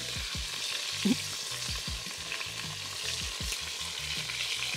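Food frying in hot oil, a steady sizzle, with a low regular thudding about three times a second underneath.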